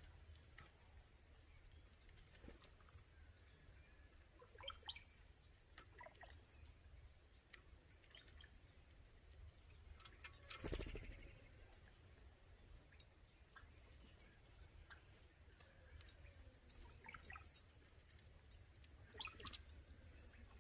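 Birds giving short, high-pitched chirps every few seconds, some sliding down in pitch, with a soft thump or rustle about halfway through.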